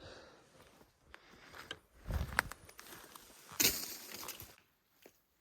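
Footsteps and rustling on the forest floor, with two louder crunching scuffs about two seconds and three and a half seconds in, then quieter.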